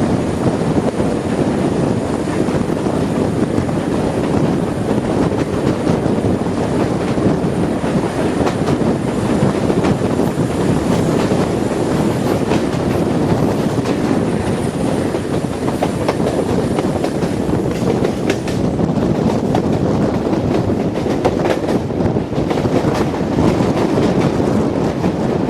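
Diesel-hauled train running along the track: a steady, loud rumble of wheels on rails, with scattered short clicks in the latter part.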